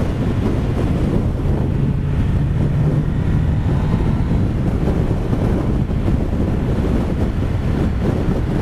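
Wind rushing and buffeting over a microphone inside a motorcycle helmet while riding at about 50 mph, a loud, steady low rush in gusty trade winds.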